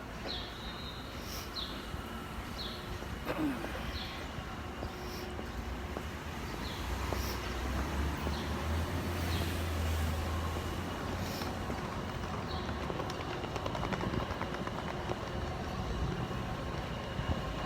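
Steady traffic-like rumble and hiss, the low rumble swelling in the middle, with short high chirps repeating about once a second in the first half.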